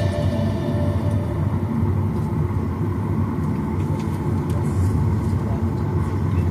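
Steady low rumble of a Boeing 737-900ER's CFM56-7B engines and airframe, heard from inside the passenger cabin before takeoff, with a couple of faint clicks about four and five seconds in.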